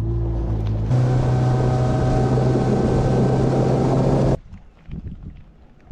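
Bass boat's motor running with a steady hum and hiss that cuts off abruptly about four seconds in.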